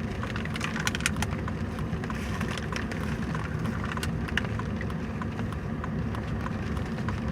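Steady low road and engine noise inside a moving car, with scattered light ticks.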